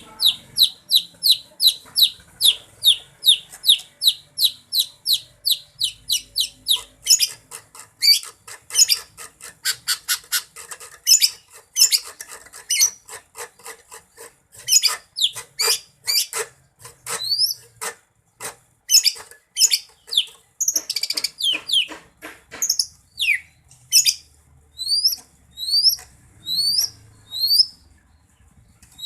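Greater green leafbird (cucak ijo) singing. It opens with a fast, even run of repeated falling whistled notes, about four a second. About seven seconds in, this breaks into a louder, more varied string of notes, and near the end it slows to spaced, rising notes.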